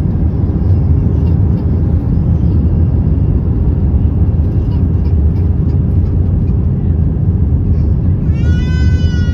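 Steady cabin noise inside an Airbus A320 in flight: the even rumble of airflow and engines. Near the end a brief high-pitched squeal cuts through it, like a small child's voice.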